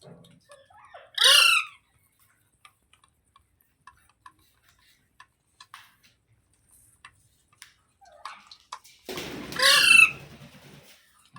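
Pet rose-ringed parakeet (Indian ringneck) giving two loud, harsh squawks, one about a second in and another, longer one near the end, with faint clicks in between.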